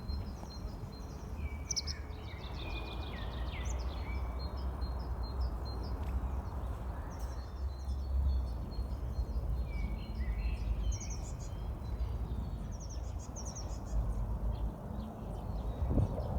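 Small songbirds chirping and trilling in short repeated phrases, over a steady low rumble of outdoor background noise.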